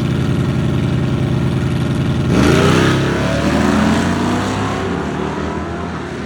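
Small-block V8 drag car sitting at a steady idle, then launching hard about two seconds in and accelerating away, its pitch climbing through the gears while the sound fades with distance.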